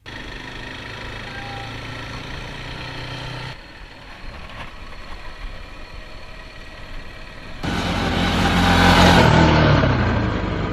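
Motorbike engine running, in short cut clips: a steady engine note, a quieter stretch, then from about three quarters of the way in a louder rush of engine and wind that swells and falls away, its pitch dropping.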